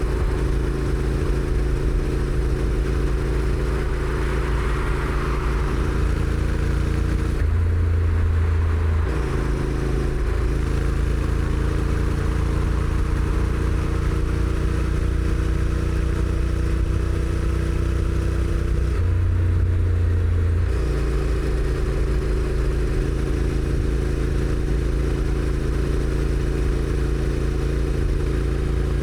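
Honda NC750X motorcycle's parallel-twin engine running through its stock exhaust while riding, its pitch slowly rising through the middle. The engine note changes briefly twice, about 8 and 20 seconds in.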